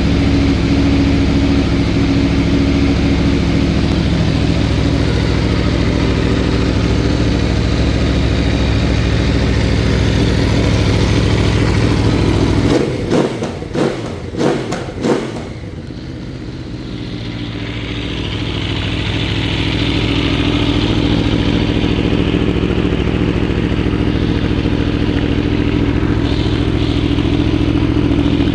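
Aprilia Tuono V4 1100's 1077 cc V4 engine running steadily at idle. About halfway through, the throttle is blipped sharply about four times in quick succession, then the engine settles back to a steady run.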